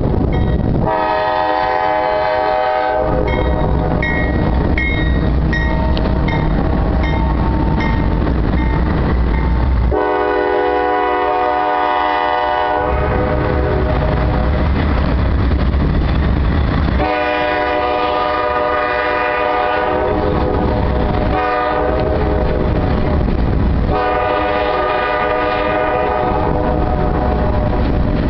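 Freight train's GE diesel locomotives running with a steady rumble while the lead locomotive's air horn sounds repeatedly. An early long blast is followed later by long, long, short, long: the standard grade-crossing signal.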